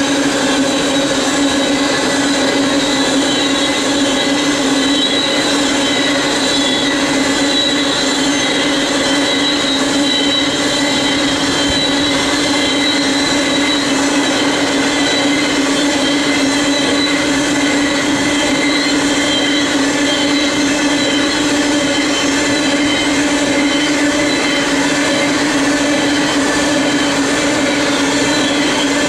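Freight cars of a loaded coal train rolling past steadily, steel wheels on rail, with constant squealing tones from the wheels.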